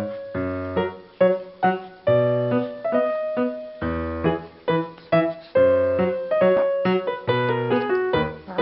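Background music: a piano playing a melody of struck notes, each ringing and fading, with a bass note under them.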